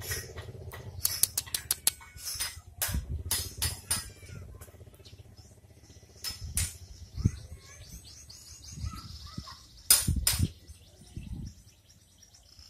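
Small birds chirping in the background with scattered sharp clicks and knocks; two loud knocks close together about ten seconds in.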